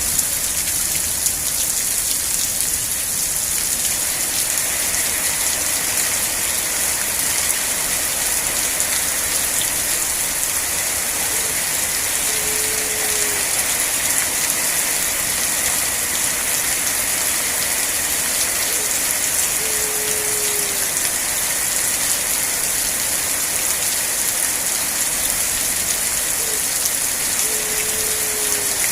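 Steady, heavy rain falling on surfaces, an even hiss with no let-up. Three times, about seven seconds apart, a short, low, slightly falling tone sounds faintly through it.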